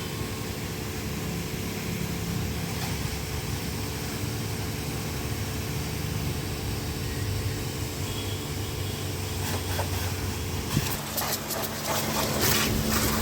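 Single-phase electric commercial pressure washer with a triplex plunger pump running steadily, a constant motor-and-pump hum. Near the end a run of short hissing, crackling bursts joins it.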